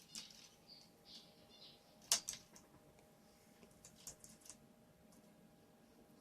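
Faint scratchy rustling and small sharp clicks from a pet bird pecking and tugging at plastic earphones. There are two louder clicks just after two seconds in and a quick run of clicks around four seconds in.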